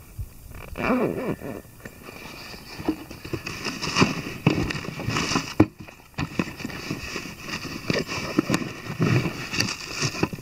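Gear being handled and packed into a motorcycle pannier: irregular rustling of bags and items knocking against each other and the case, with a brief pause a little past the middle.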